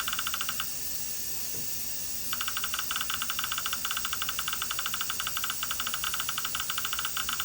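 Rapid electronic beeping from a dental scanner in use, many short beeps a second. The beeping breaks off about half a second in and starts again about two seconds in, over a steady hiss.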